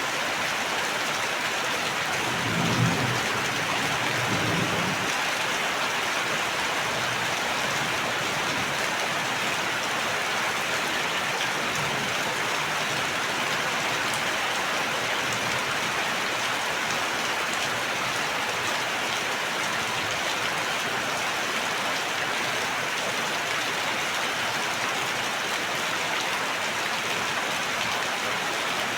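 Steady heavy rain, an even hiss of drops on surfaces. A short low rumble a few seconds in.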